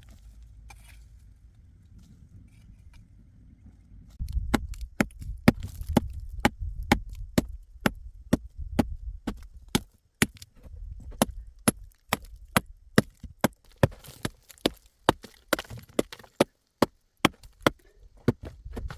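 A tool striking wood in a fast, even rhythm, about two to three blows a second, with a short pause now and then. It starts about four seconds in, after a low steady rumble.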